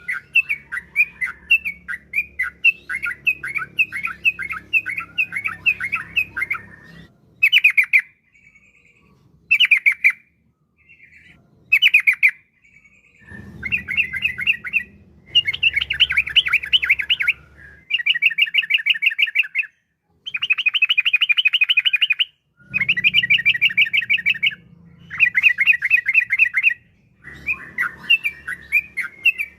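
Yellow-vented bulbul (trucukan) singing a long, rapid chattering song of quick repeated notes. The song comes in runs of about two seconds with short breaks, and a few short single phrases near the middle. This is the long rolling song ('ropel panjang') used as a lure to set other bulbuls singing.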